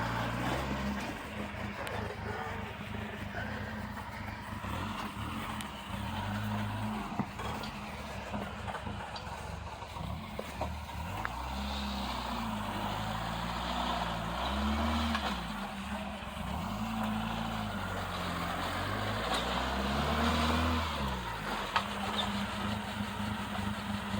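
Off-road vehicle engine running at low revs and revving up and easing off several times, its pitch rising and falling in short humps.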